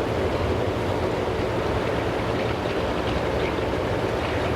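Semi truck's diesel engine running steadily, a low, even rumble.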